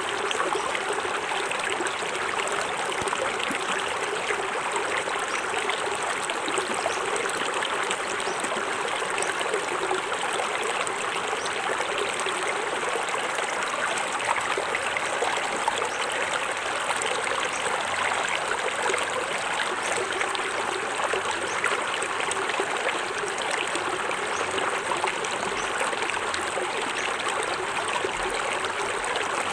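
Small forest waterfall splashing steadily into a stream, a continuous rushing and trickling of water.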